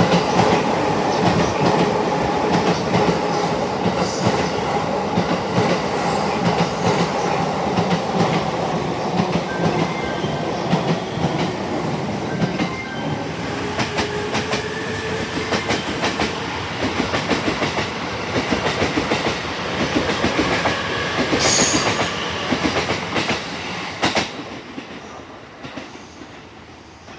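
JR East electric trains, an E231 series commuter train and an E257 series limited express, running along the tracks beside the platform. Their wheels clack rapidly over the rail joints under a steady electric motor whine, and the noise fades away in the last few seconds as the trains draw off.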